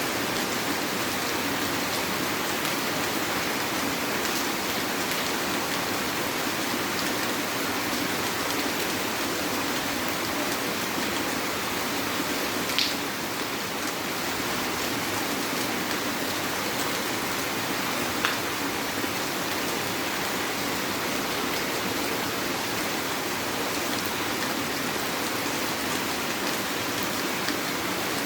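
Heavy rain falling steadily, an even hiss of many drops. Two sharper single taps stand out, about halfway through and again some five seconds later.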